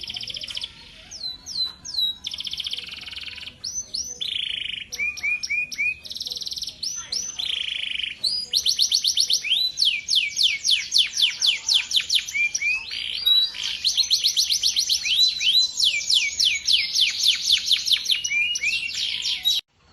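Male canary singing a long, unbroken song of varied phrases and fast trills of rapidly repeated sweeping notes. The song grows denser and louder about halfway through and stops suddenly near the end.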